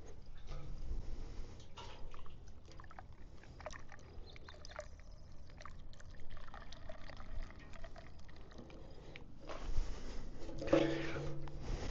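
Liquid dripping and trickling, mixed with small clicks and knocks of parts being handled, then a steadier pour-like rush near the end.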